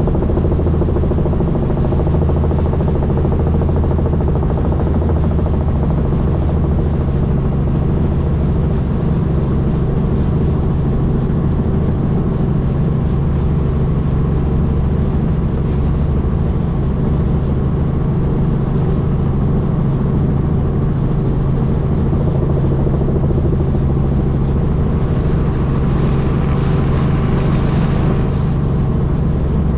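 Helicopter in flight: a steady, loud drone of the engine and rotor with a strong low hum that stays constant. A brief hiss rises over it about 25 seconds in and fades out near 28 seconds.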